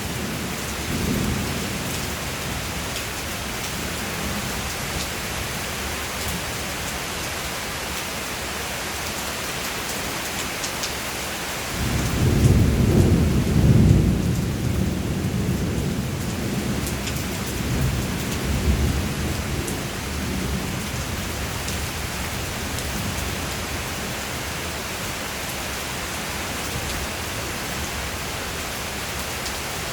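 Steady rain falling, with a roll of thunder that starts suddenly about twelve seconds in, is loudest over the next two seconds and rumbles away over several more. A fainter rumble comes about a second in.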